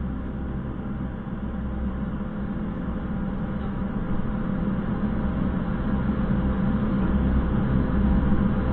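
Steady vehicle engine and road noise with a low hum, slowly growing louder.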